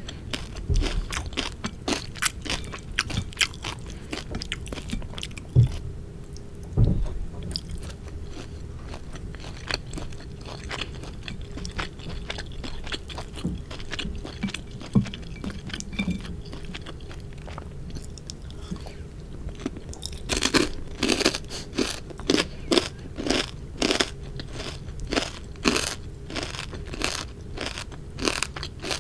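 Close-miked eating sounds: chewing with crisp crunches and wet mouth clicks. The crunching grows denser and louder about two-thirds of the way in.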